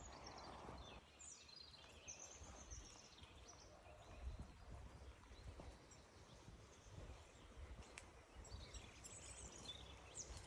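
Faint outdoor ambience: small birds chirping in short high calls, a cluster about a second in and another near the end, over a low uneven rumble.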